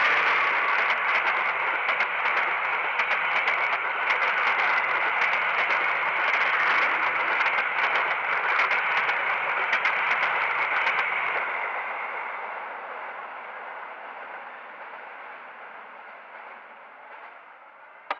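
Passenger train carriages rolling past on the rails, their wheels rattling and clicking in quick succession over the track. The sound fades away steadily over the second half as the end of the train moves off.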